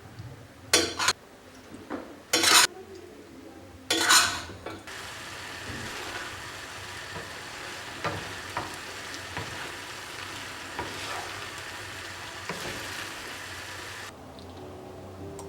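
Food frying in a pan. Three short loud hisses come in the first five seconds, then a steady sizzle with small clicks of a utensil stirring for about nine seconds, which cuts off sharply near the end.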